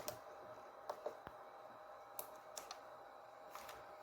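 Scattered light clicks of front-panel buttons and knobs being worked on a bench-powered avionics unit, about nine clicks in small clusters, over a faint steady electronic hum.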